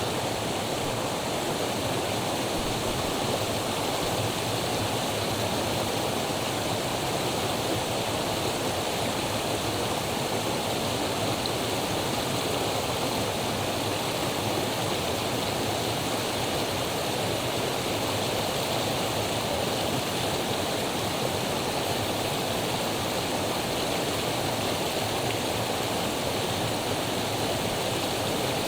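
Mountain headwater stream running steadily, an even wash of flowing water with no breaks.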